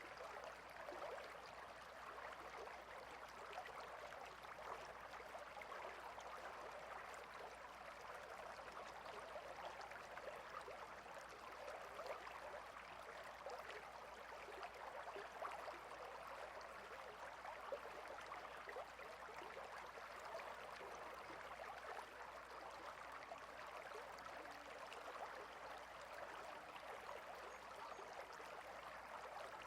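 Water stream flowing: a steady, faint babble of running water.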